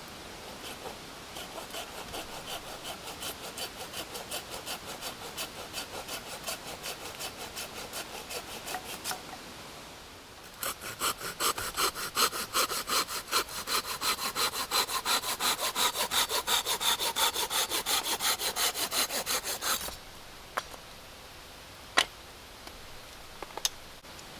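Hand saw cutting through wood in steady back-and-forth strokes, about three a second: a softer run of strokes, a short pause, then a louder, faster-biting run that stops suddenly. A sharp click follows near the end.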